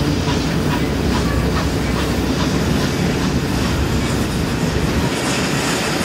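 Passenger cars of a train rolling past close by: a steady rumble of steel wheels on rail, with a regular clickety-clack as the wheels cross rail joints. The deep rumble thins near the end.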